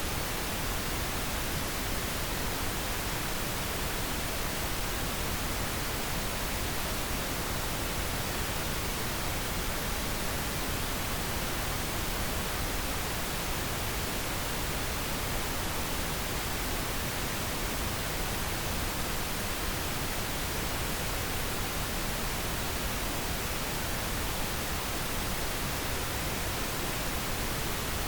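Steady pink noise: an even, unchanging hiss spread across the whole range of pitch, with no tones or events in it.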